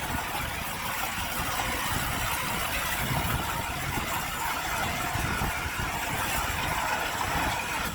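Heavy earthmoving machinery at work: a diesel engine running steadily under a dense, high-pitched mechanical noise.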